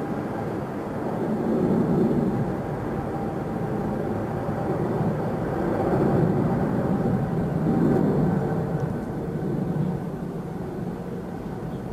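Jet airliner engines at takeoff power, heard from a distance as a steady rumble with a faint whine in it. It swells and eases slightly, and grows a little quieter near the end as the aircraft climbs away.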